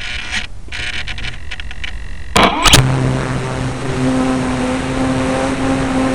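Radio-controlled model airplane's motor starting up suddenly about two and a half seconds in, then running steadily with its propeller turning, heard close up from on board. Clicks and rustling from handling come before it.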